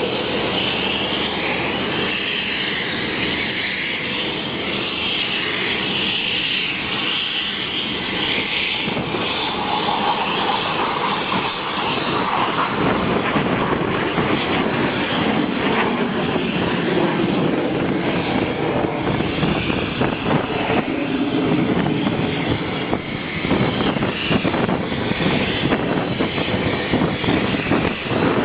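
L-15 jet trainer's jet engines heard in a display flypast: a loud, continuous roar that grows louder and rougher about halfway through.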